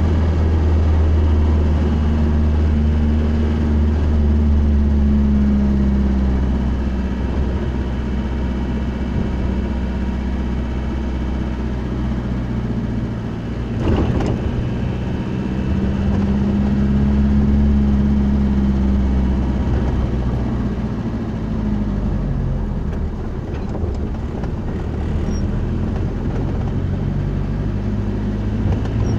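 Car engine and road noise heard from inside the cabin, the engine's pitch slowly rising and falling as the car drives. A single sharp knock sounds about halfway through.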